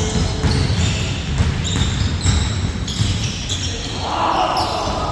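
Basketball bouncing repeatedly on a hard court during play, a run of quick low thuds, with short high squeaks over the top.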